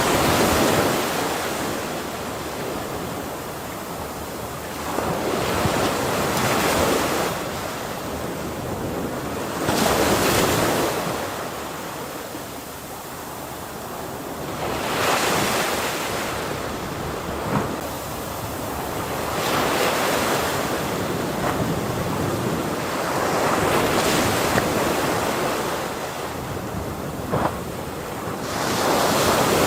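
Ocean waves breaking on a shore, one after another about every four to five seconds, each swelling and then washing out into a steady hiss of surf.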